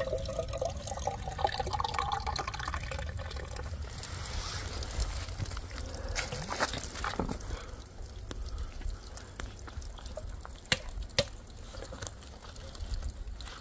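Liquid being poured into a container, its pitch rising slowly as the vessel fills, until the pour stops about four seconds in. After that come scattered clicks and rustling.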